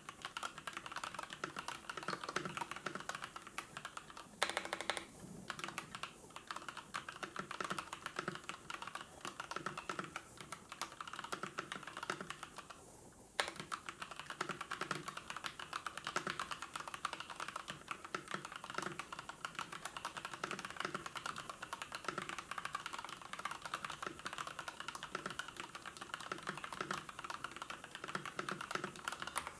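Fast, continuous typing on a computer keyboard, a dense run of key clicks. There is one louder clack about four and a half seconds in, and a brief pause in the typing about thirteen seconds in.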